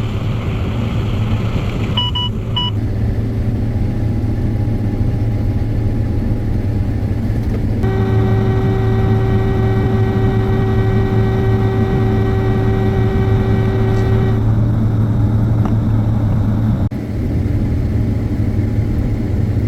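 Combine harvester running steadily while harvesting corn, a loud low drone. There is a short beep about two seconds in, and a steady higher-pitched whine for about six seconds from about eight seconds in.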